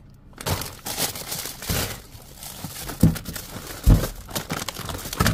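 Plastic food packaging and bags crinkling and rustling as items are handled and sorted in a dumpster, with two heavier thumps about three and four seconds in.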